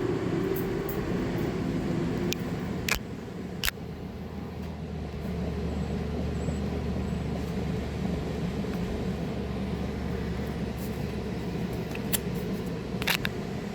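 A steady low hum, with a few sharp clicks about three and four seconds in and one near the end.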